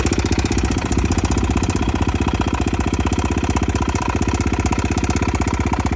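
Dirt bike's engine running steadily with an even, rapid pulse. The bike is broken, and the owner says from the way it sounds that it needs repair.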